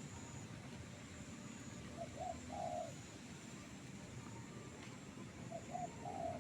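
A dove cooing: two phrases, each of two short notes followed by a longer held coo, about three seconds apart.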